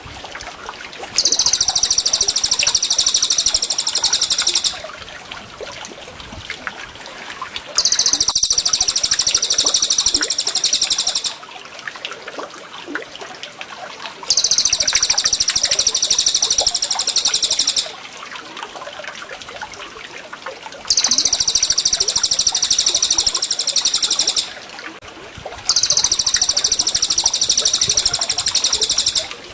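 Looped songbird masteran recording: five bursts of a high, very rapid trilled song, each about three and a half seconds long with short pauses between, over a steady trickle of gurgling water.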